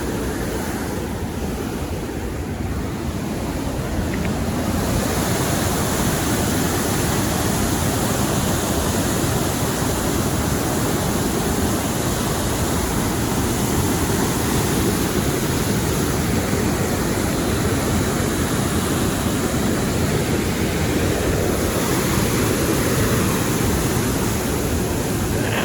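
Waterfall rushing steadily: a constant, deep, even noise of falling water, a little quieter for the first few seconds.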